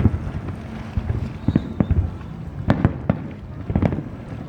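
Aerial fireworks exploding: a string of sharp bangs at uneven intervals, some in quick clusters, over a continuous low rumble.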